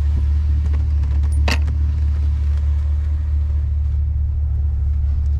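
A steady low rumble, with a single short clink about a second and a half in.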